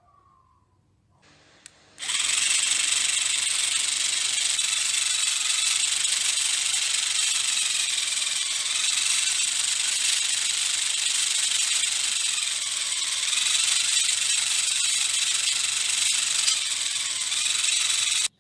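Small motor-driven mechanism running, a steady, loud, hissing whir with a faintly wavering whine. It switches on suddenly about two seconds in and cuts off suddenly just before the end.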